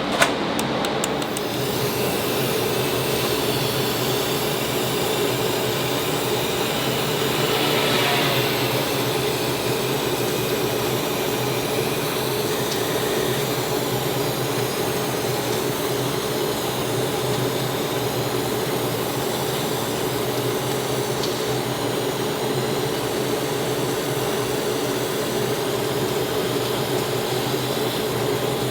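The SM6's engine running steadily, a constant mechanical hum with a slight swell about eight seconds in.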